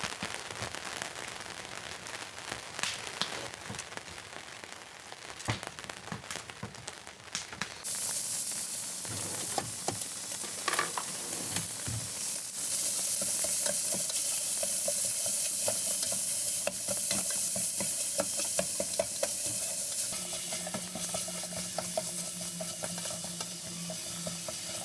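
Elk meat and bacon frying in a pan: a few clicks and knocks, then a loud, even sizzle that starts suddenly about eight seconds in and keeps on.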